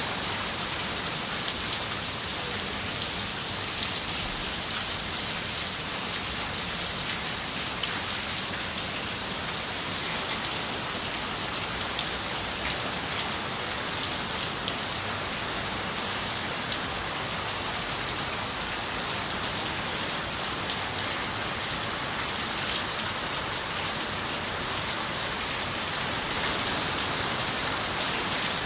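Steady rain falling on a window, an even hiss with scattered small drop ticks.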